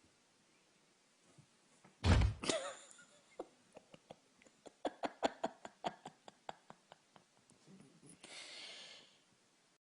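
A single heavy thump about two seconds in, followed by a run of light sharp clicks or taps, two to three a second, and a brief hiss near the end.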